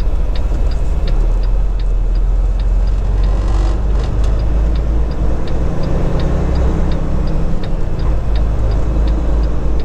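Steady engine drone and road noise inside a moving truck cab on a wet highway, with a light ticking a little over twice a second.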